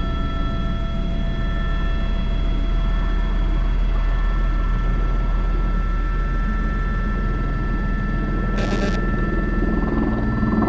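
Airbus H125 (AS350 B3) helicopter heard from inside the cockpit in flight with a sling load: steady rotor and turbine noise with several high, steady whine tones. A short hiss cuts in briefly near the end.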